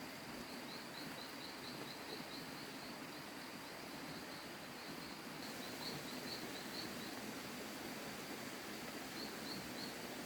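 Outdoor countryside ambience: a steady high insect drone with runs of quick, high chirps, about three or four a second, that come and go several times.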